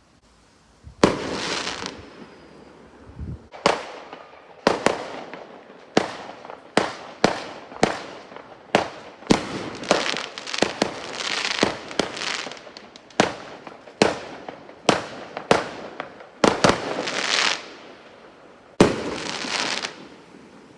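Fireworks going off in quick succession: about twenty sharp bangs, the first about a second in, several followed by a second or so of hissing crackle.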